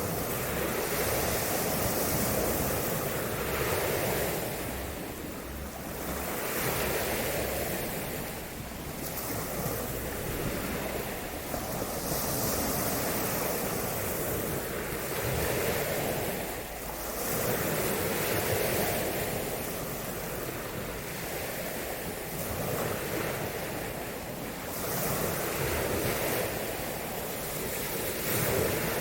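Waves breaking and washing on a shore, swelling and easing every few seconds, with wind rumbling on the microphone.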